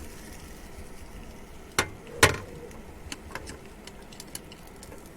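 Sharp clicks and knocks of cookware being handled while cooking: two strong knocks about two seconds in, the second the loudest, then a few lighter ticks, over a steady low background hiss.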